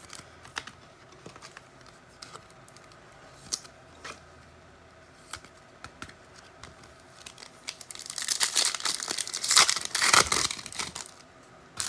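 Foil trading-card pack wrapper being handled, then torn open and crinkled loudly for about three seconds near the end, after faint scattered clicks and rustles.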